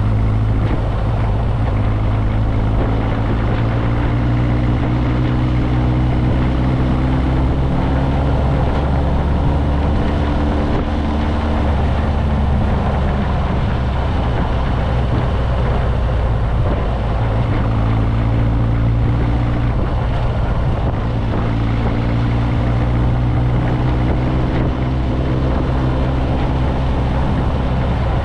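Motorcycle engine running under way, with steady wind and road rush. The engine note holds fairly even, fades for a few seconds about halfway through, then comes back.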